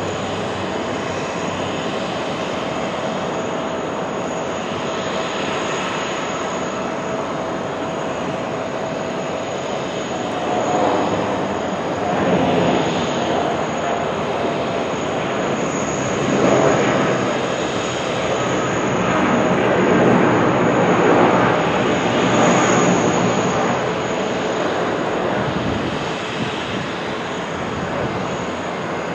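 Jet airliner engines running, a steady rush with a faint whine through the first third, then swelling louder several times in the middle before easing back.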